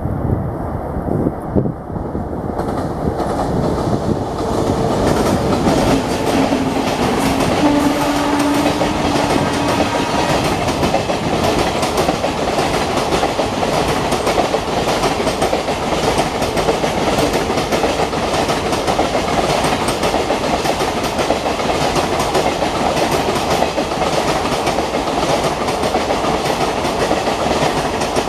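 Passenger train passing at speed, its wheels clattering over the rail joints. It grows louder over the first few seconds, then stays steady and loud.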